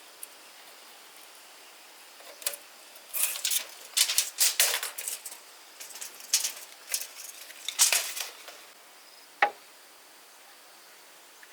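Work on wood by hand: irregular clusters of short scraping and clattering sounds, then one sharp knock about nine and a half seconds in.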